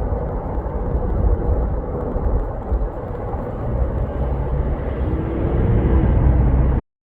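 A steady low rumble of outdoor noise that cuts off suddenly near the end.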